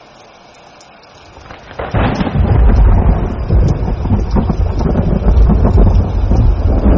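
Rain falling, then a thunderclap about two seconds in that breaks into a loud, deep rolling rumble of thunder lasting the rest of the time.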